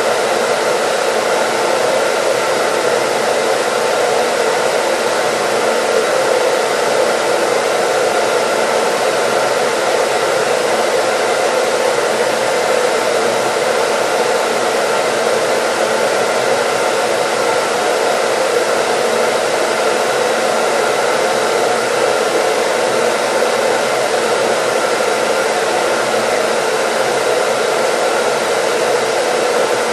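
Hair dryer running steadily without a break: an even rush of air and motor noise with a faint steady hum in it, played as white noise.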